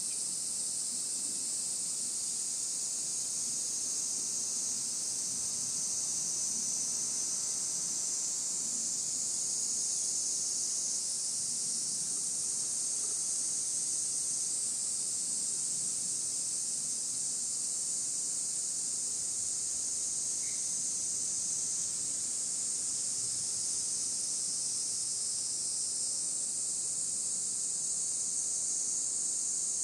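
A steady, high-pitched chorus of insects singing.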